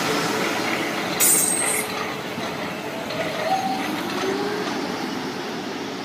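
South Western Railway passenger train passing close by, its wheels running loudly on the rails and slowly fading. A brief high squeal comes about a second in, and a tone rises in pitch around three to four seconds in.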